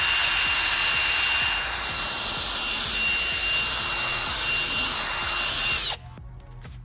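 Power drill spinning a polishing pad loaded with compound against a plastic headlight lens: a steady high motor whine over loud rubbing noise. About six seconds in the whine sags briefly and then stops abruptly as the drill is released.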